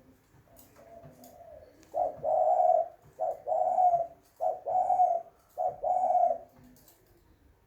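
Spotted dove (tekukur) cooing: a few soft notes, then four loud coo phrases a little over a second apart, each a short note followed by a longer held one.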